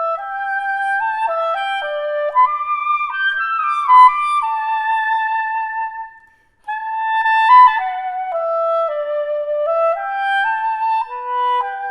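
Solo soprano saxophone playing a melodic phrase of stepping and held notes in its upper register, with a short breath break about halfway through before the line resumes.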